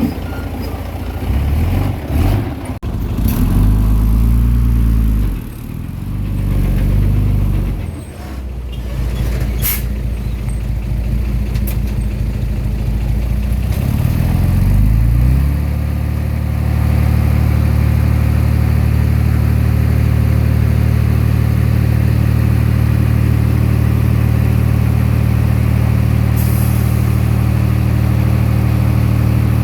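Komatsu D20P bulldozer's diesel engine working, its pitch rising and falling with a few sharp clanks over the first half, then settling to a steady, even note about halfway through.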